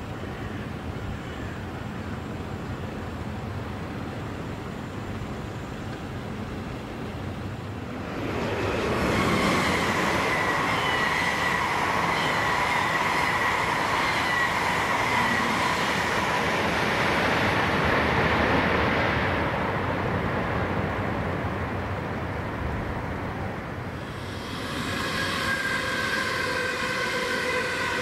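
A train running past on the rails: from about eight seconds in, a loud rush of wheels with a steady high whine, dying away after about twenty seconds. Near the end a new set of several steady whining tones starts up.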